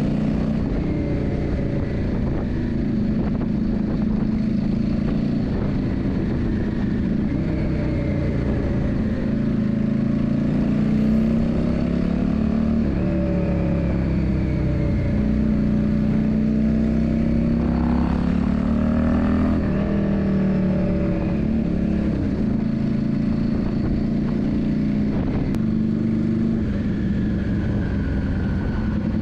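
Yamaha Drag Star 400's V-twin engine running steadily, its pitch rising and falling several times as the revs change.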